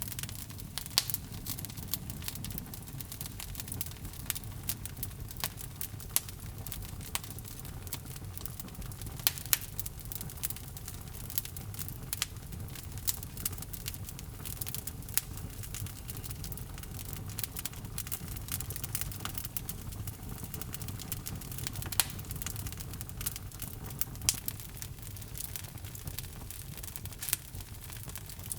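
Wood logs burning in a fireplace: steady low rumble of the flames with irregular crackles and occasional louder pops.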